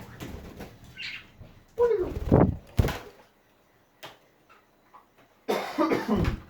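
A person's voice making indistinct, unworded sounds twice, with a few sharp clicks or knocks between them.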